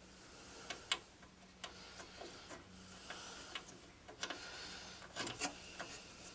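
Faint, scattered light clicks and rubbing, about a dozen over several seconds, from hands handling a wire terminal and small metal parts while connecting the starter wire.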